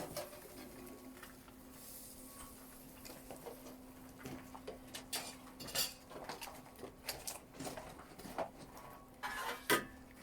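Scattered clinks and knocks of cooking utensils and dishes against a pot, with a louder clatter near the end.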